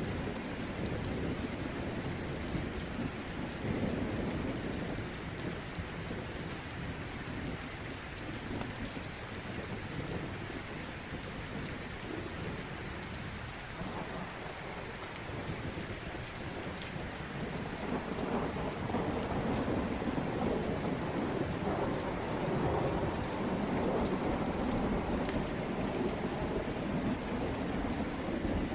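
Steady heavy rain falling, with rolling thunder. The rumbling builds in the second half.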